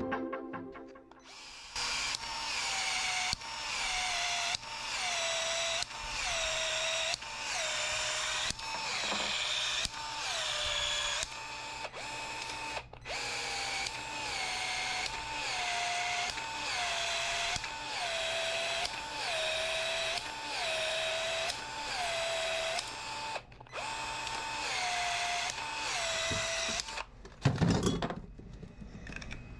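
Power drill run in repeated short bursts about once a second, its motor whine dropping in pitch under load in each burst. Near the end comes a brief louder rumble.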